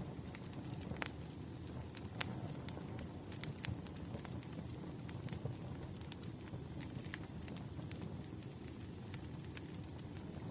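Burning firewood crackling: a steady low rumble of flames with frequent sharp, irregular pops and snaps. A faint thin high whistle comes in about halfway through and holds.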